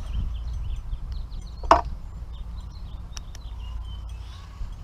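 A single sharp knock with a brief ring, a little under two seconds in, and a fainter click about a second later, over a steady low rumble, with birds chirping.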